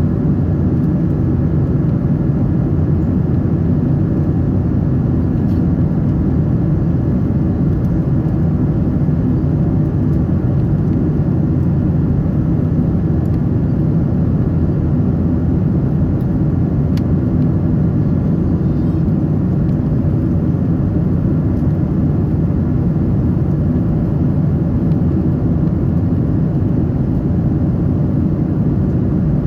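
Steady cabin noise of a Boeing 777-300 airliner: an even, low rush and hum of engines and airflow that holds one level throughout.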